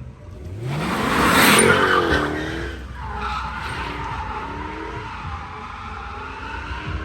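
A car's engine revving hard as it passes, rising in pitch and loudest about one and a half seconds in, then running on more quietly with its pitch wavering.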